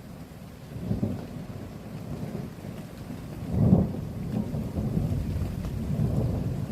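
Thunder rumbling during rain: a low rumble that swells about a second in, peaks loudest about halfway through, and rolls on afterwards.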